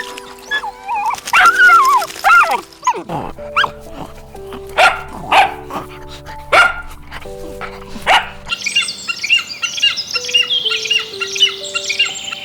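Dog barking over background music: pitched calls at first, then a run of about eight sharp barks. From about nine seconds in, birds chirp rapidly.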